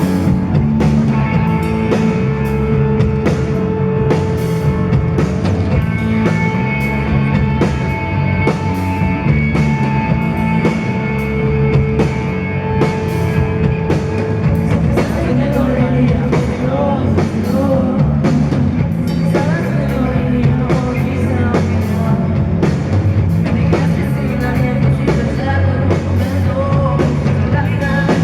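A rock band playing live, with a steady drum beat, guitar and held keyboard or guitar tones; a voice comes in singing about halfway through.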